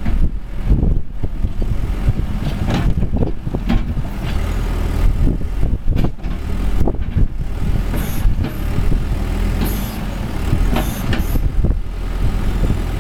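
Cat 420E backhoe loader's diesel engine running steadily, with frequent knocks and clanks and a few short hisses in the second half.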